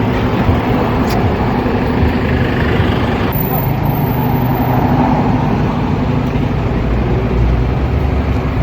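Vehicle engine running steadily amid street traffic noise.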